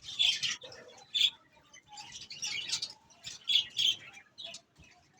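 Caged Australian parrots chirping, many short high calls overlapping in irregular clusters.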